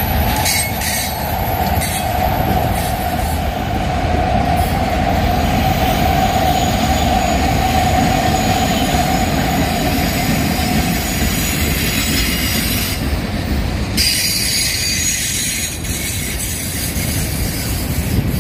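Union Pacific freight cars rolling past close by: a steady, loud rumble of steel wheels on rail, with a steady high wheel squeal over it that fades out about two-thirds of the way through.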